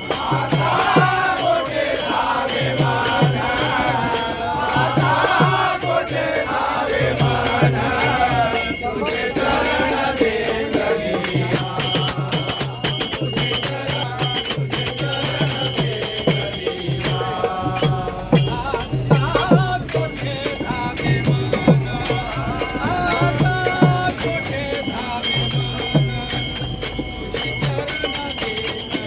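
A bhajani mandal sings a Marathi bhajan in chorus to a steady beat of hand cymbals and a drum. The voices are strongest for the first ten seconds or so; after that the percussion leads and the singing is fainter.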